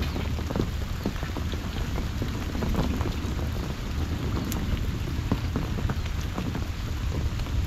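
Steady rain falling on a flooded rice paddy, with many small scattered drop taps over a low steady rumble.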